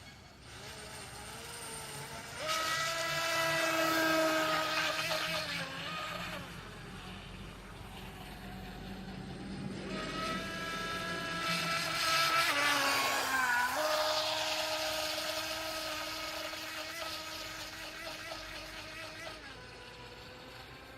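RC racing boat's motor whining as it runs, swelling loudly about two and a half seconds in and again about ten seconds in, its pitch wavering and dipping between. A rushing hiss rides over the whine while it is loudest.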